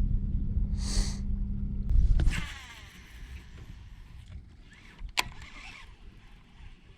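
Low rumble with a steady hum from a boat's electric trolling motor, which stops about two seconds in. A short hiss comes about a second in, and a single sharp click about five seconds in.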